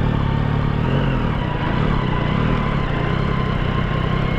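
Yamaha XSR900's three-cylinder engine running steadily at low revs, idling or creeping along at walking pace.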